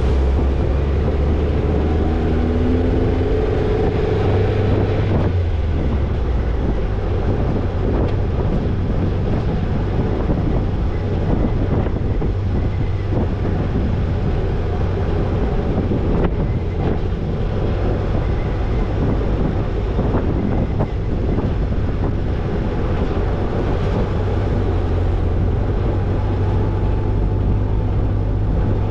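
Toyota Tercel 4WD wagon's four-cylinder engine running steadily as it is driven off-road, with wind on the microphone and a few brief knocks partway through.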